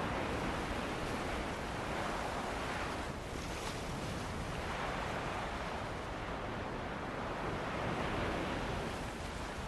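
Ocean waves washing onto a beach with wind blowing, a continuous rushing surf that swells and eases.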